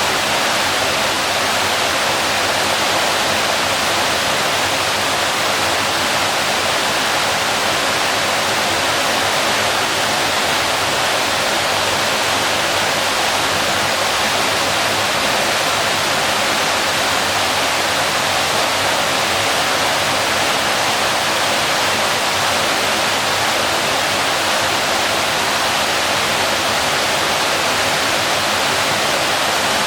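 Waterfall: a steady, unchanging rush of falling water, mostly a bright hiss with little low rumble.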